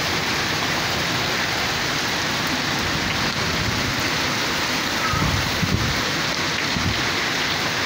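Monsoon rain falling steadily on a concrete rooftop, a continuous even hiss of a downpour.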